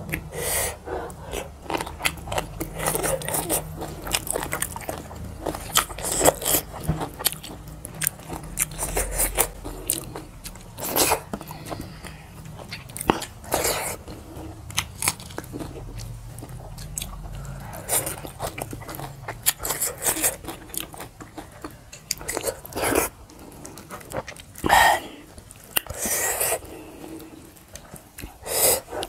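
Close-miked chewing and wet mouth smacking of people eating a meal by hand, with irregular crunches and clicks and a few louder smacks in the second half.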